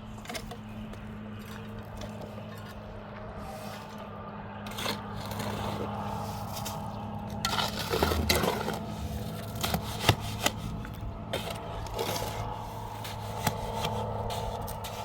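Irregular scraping and rubbing with several sharp knocks, busiest in the second half, over a steady low hum.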